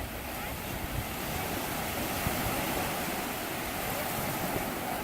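Sea surf washing onto a beach, a steady rushing of breaking waves, with wind buffeting the microphone.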